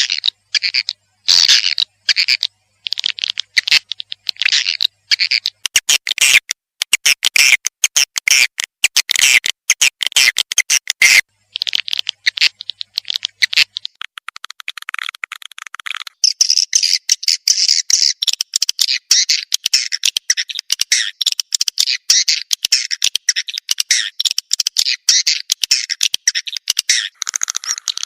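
Recorded swiftlet calls: rapid, high chittering and twittering in choppy bursts, becoming a dense, unbroken chatter from about halfway through. It is a lure call played to draw swiftlets into a swiftlet house to roost.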